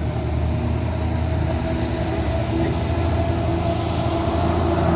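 Steady mechanical drone with a low hum and a thin constant whine, unchanging throughout.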